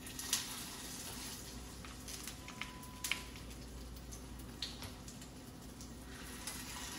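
Salmon cakes frying in hot oil in a skillet: a steady sizzle with scattered pops and crackles as the patties are laid into the pan, the hiss starting just after a patty goes in.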